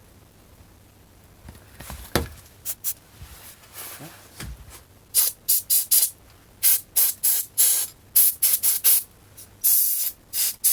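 Can of compressed air duster fitted with a red straw nozzle, fired in a rapid string of short hissing bursts to blow dust out of a circuit board, with a click before the bursts start. The spray is weak: "not much power there."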